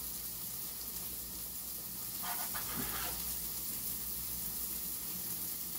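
Beef patties sizzling steadily in a cast-iron pan, with a dog whining briefly a little over two seconds in.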